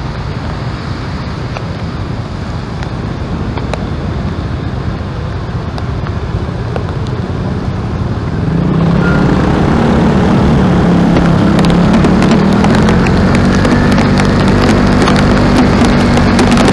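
A motor engine running with a low rumble. About eight seconds in it grows louder, with a steadier, slightly wavering engine note and scattered crackling clicks.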